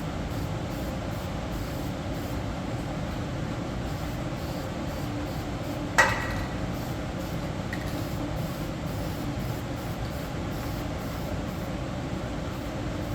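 Steady mechanical hum of shop noise with one sharp metallic clink about six seconds in that rings briefly.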